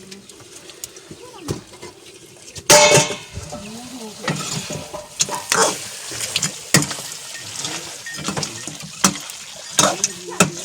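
Metal cooking pots and utensils clinking, knocking and scraping, with a loud clatter a little under three seconds in.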